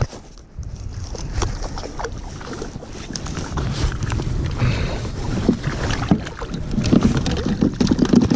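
A string of hooked mackerel splashing and knocking against a kayak as it is brought up out of the water, with irregular clicks and knocks that grow busier in the second half. A low rumble of wind on the microphone runs underneath.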